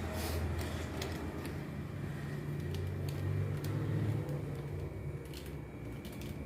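Steady low rumble, with a few light clicks and knocks scattered over it.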